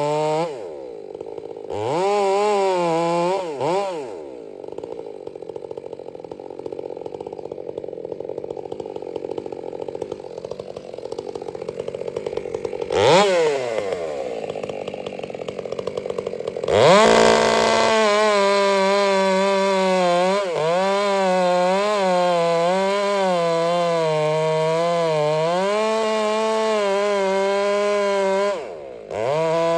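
Two-stroke chainsaw dropping to a low idle for several seconds, revved once briefly, then held at full throttle with its pitch wavering and sagging under load, as when cutting into wood. It eases off briefly near the end.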